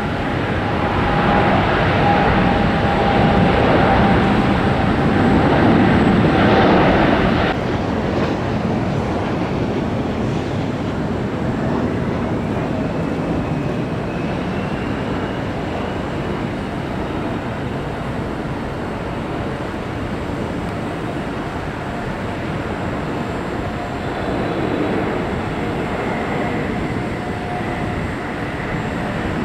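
Jet airliner engines, a loud rushing roar with a steady whine for about seven seconds that cuts off abruptly, followed by a steadier, quieter jet rumble with a faint whine rising slowly in pitch.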